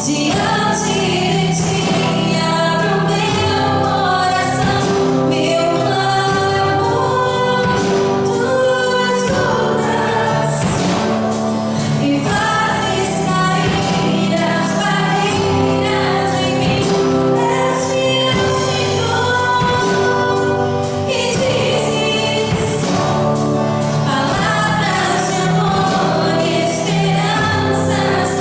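Gospel worship song performed live by a church praise team: a group of singers with instrumental backing, steady and loud.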